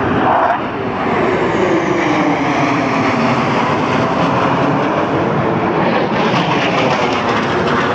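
Aircraft flying past at an airshow, its engine noise loud and steady, with a pitch that falls over the first few seconds as it goes by.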